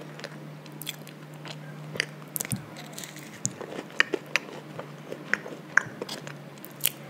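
Close-miked chewing of a soft Froot Loops mini donut, with scattered wet mouth clicks and smacks.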